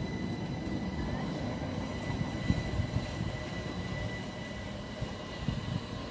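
Train running through the station: a steady low rumble with a thin, high steady whine over it, and a few short dull thumps.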